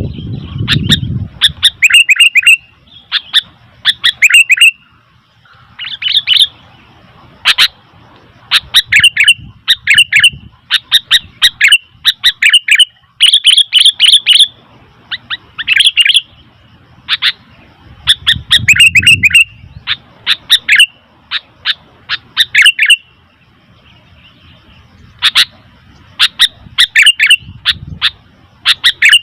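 Sooty-headed bulbul (kutilang) calling loudly and repeatedly: quick clusters of short, sharp down-slurred notes, a burst every second or so with brief pauses between.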